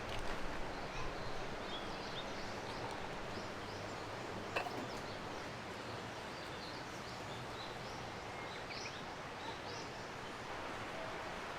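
Birds chirping in short scattered calls over a steady outdoor hiss, with a single sharp click about four and a half seconds in.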